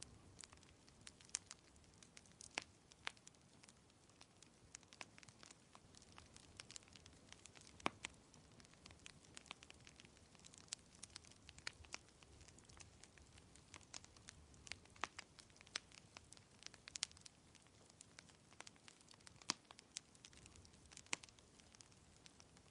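Wood fire crackling: irregular sharp pops and snaps, one louder pop about eight seconds in, over a faint steady hiss.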